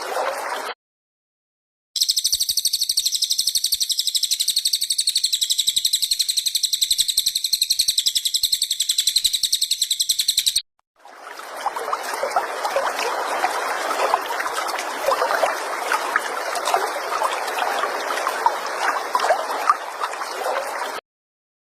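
Bird-song training recording: a high-pitched, very fast continuous songbird trill lasting about eight seconds, then, after a short break, about ten seconds of a lower, harsh hissing chatter. Clean silent gaps separate the pieces.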